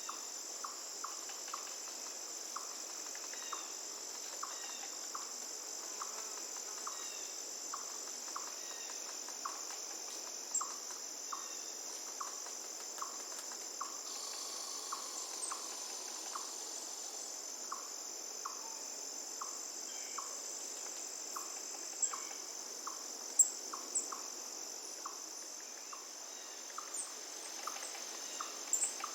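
Steady high-pitched drone of crickets or similar insects, with a short note repeated about once or twice a second, over a faint hiss of flowing river water.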